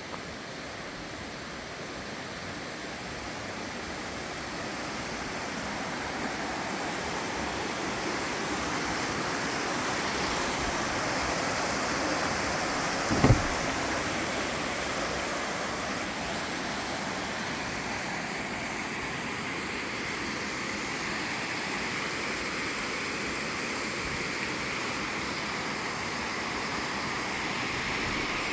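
Clear water rushing and splashing steadily, growing a little louder over the first several seconds and then holding even. A single brief thump about thirteen seconds in.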